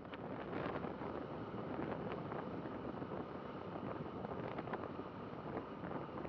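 Steady road and traffic noise from a moving motorcycle, picked up by a bike dashcam's microphone with wind buffeting it, with scattered faint clicks.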